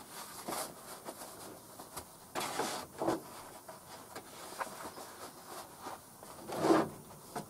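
Faint rustling and a few light handling knocks, spaced a second or more apart, as work gloves are pulled on and a chainsaw is handled.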